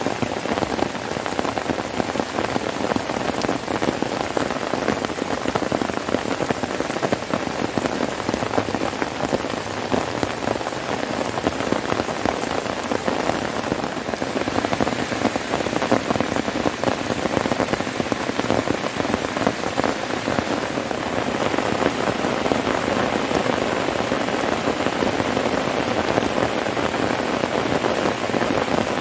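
Heavy rain falling steadily, a dense, continuous patter of drops.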